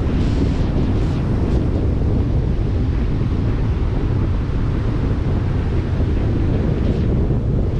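Strong, gusty tropical-storm wind buffeting the microphone in a steady low rumble, with surf hissing and breaking underneath; the hiss swells about a second in and again near the end.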